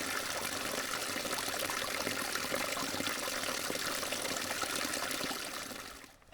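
Water of a stream running steadily, fading out near the end.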